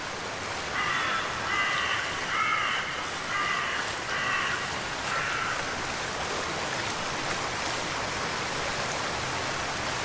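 A bird calling: a string of short, pitched calls through the first half, over a steady hiss of rain.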